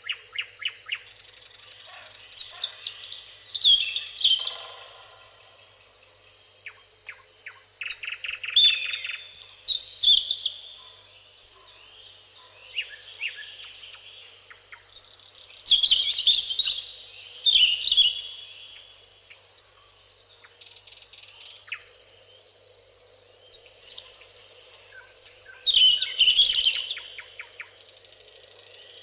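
Several songbirds singing in a summer meadow, with loud bursts of rapid trills and chirps recurring every few seconds over a steady high-pitched drone.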